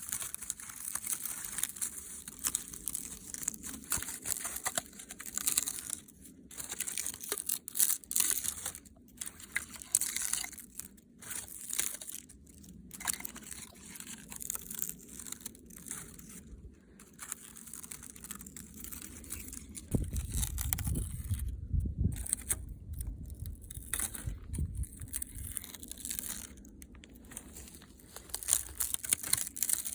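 Dry natural material being crinkled, crunched and torn by hand, in irregular crackling bursts. About twenty seconds in, a heavier low rumble joins for a few seconds.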